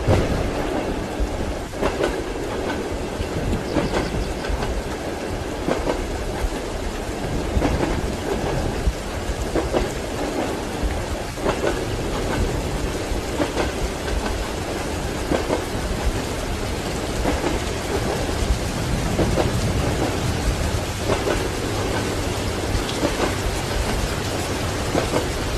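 Ambience of a train ride in a thunderstorm: the wheels knock over rail joints about every two seconds under a steady hiss of rain, with thunder rumbling low.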